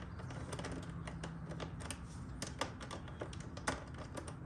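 Irregular light clicks and taps of small metal tools and parts being handled, over a faint steady low hum.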